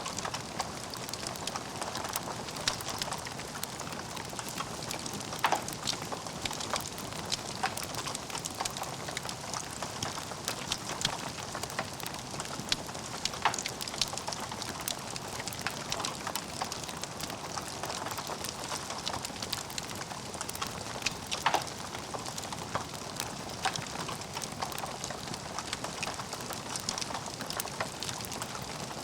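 Log fire burning in a fireplace: a steady crackle of many small clicks, with a few louder pops at intervals.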